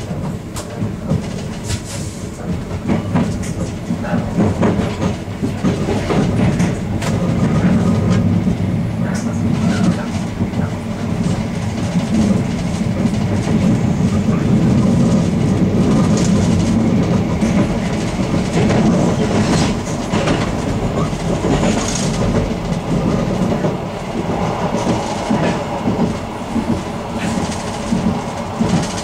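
Ganz-Mavag electric multiple unit running on the rails, heard from inside the rear cab: a steady low rumble with irregular clicks and clacks as the wheels pass over rail joints and pointwork. It grows louder over the first several seconds as the train picks up speed leaving a station, then runs on at a steady level.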